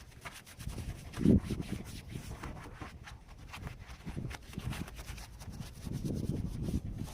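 Irregular rubbing and scrubbing strokes from hand cleaning of the engine bay, with a sharper knock about a second in.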